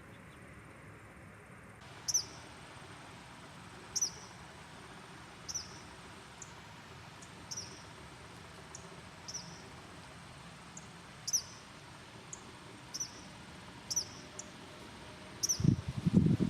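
A small bird's short, high chirp, a quick downward note, repeated about every one to two seconds over a faint steady background hiss. In the last second a loud, low rumbling noise comes in.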